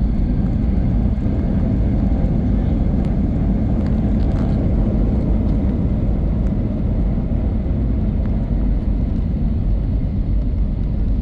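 Steady low rumble of an Airbus A321's jet engines during its landing.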